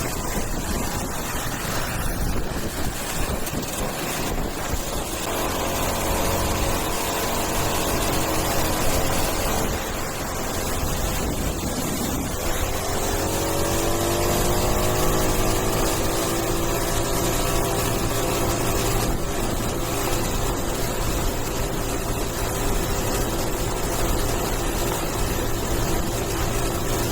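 Coleman mini bike's small single-cylinder engine running through a newly fitted DIY muffler, so much quieter that the engine itself is louder than the exhaust. It speeds up about five seconds in, drops back near twelve seconds, then climbs again in a rising whine and holds there.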